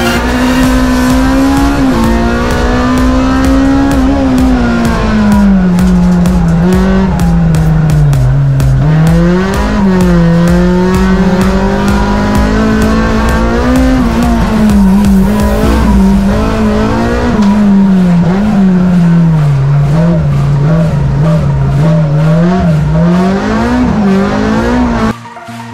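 In-cabin sound of a Honda Civic Type R EP3 race car's 2.0-litre four-cylinder engine at high revs, its pitch climbing and dropping again and again through gear changes and lifts on a hill-climb run. The engine sound cuts off abruptly near the end.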